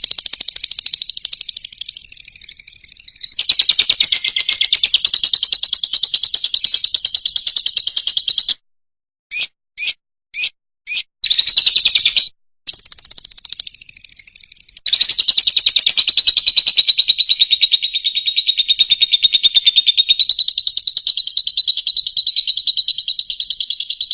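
Fischer's lovebird singing in long, fast, high trills. Near the middle the song breaks off into about five short separate chirps and a brief pause, then resumes as one long trill.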